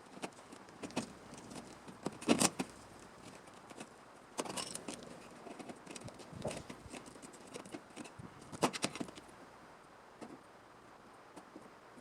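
Scattered clinks and clatter of metal being handled, in a few short bursts with pauses between.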